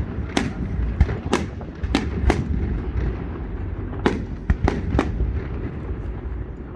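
Fireworks display: sharp bangs of shells bursting with a short echo after each, about five in the first two and a half seconds, a lull, then four more close together a little after four seconds, over a steady low rumble.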